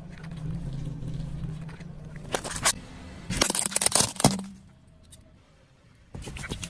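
A car's engine running low and steady while something brittle cracks and crunches under its weight. The crunching comes in bursts, about two and a half seconds in, a longer one around four seconds, and a short one near the end. The engine hum fades about halfway.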